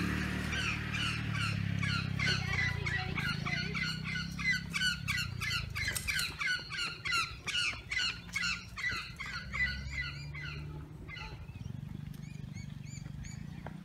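Bird calls: a rapid run of short, repeated squawking chirps, about two to three a second, over a low steady rumble. The chirps stop about ten seconds in and give way to a few fainter, higher chirps.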